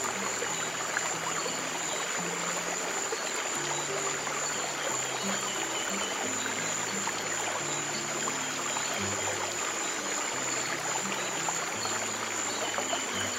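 Running stream water trickling steadily, with soft, slow low piano notes sounding underneath.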